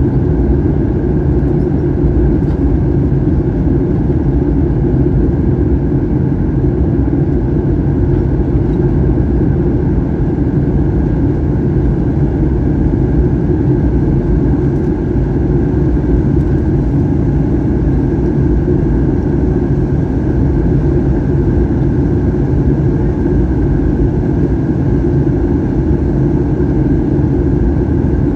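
Steady cabin noise inside a Boeing 737-800 in flight: the drone of its CFM56-7B turbofans and the rush of air past the fuselage, heavy and low, with a faint steady whine above it.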